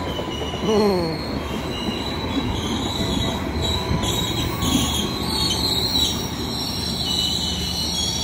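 Passenger train of a Bandung local service rolling slowly past close by: a steady low rumble of the wheels on the rails, with high, wavering wheel squeal that grows stronger in the second half as the train slows to stop at the station.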